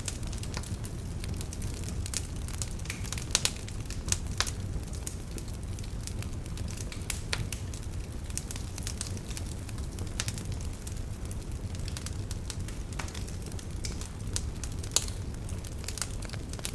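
Wood logs burning in a fireplace: irregular crackles and sharp pops over a steady low rumble of the flames, with a few louder pops about three and four seconds in and near the end.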